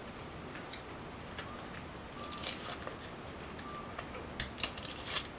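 Soft clicks and taps of hands handling a small object, over a steady background hiss, with a quick run of sharper clicks about four seconds in.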